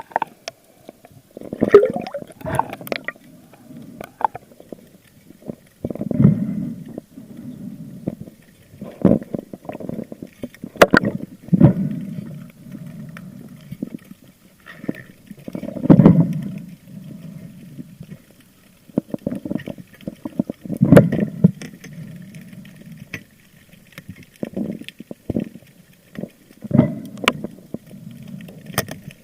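Water swishing and gurgling around an underwater action camera during a spearfishing dive. It comes in irregular surges every few seconds, with scattered sharp clicks and knocks.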